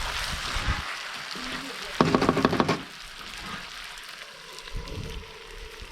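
Chicken sizzling and frying in a pan as it is stirred, an even hiss that fades somewhat after the first couple of seconds. A short loud voice cuts in about two seconds in.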